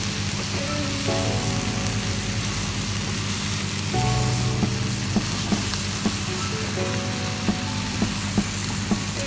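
Halloumi cubes, olives and chopped parsley sizzling in a non-stick frying pan as a wooden spatula stirs them, with short scrapes and taps of the spatula against the pan, mostly in the second half.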